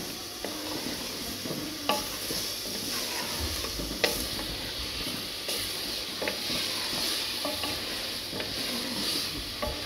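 Green beans and mutton sizzling as they fry in an aluminium pressure cooker, stirred with a wooden spatula that scrapes and knocks against the pot now and then, most sharply about two and four seconds in.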